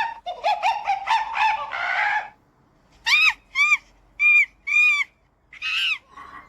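Monkey calls: a fast run of chattering hoots, then four separate arched hoots and one more near the end.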